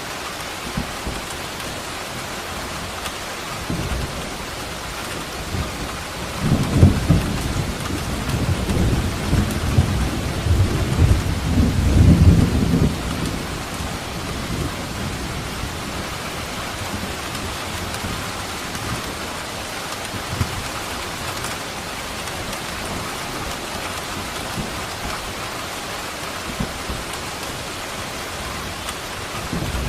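Steady rain falling, with a long roll of thunder rumbling in about six seconds in, swelling and peaking around twelve seconds before fading back into the rain.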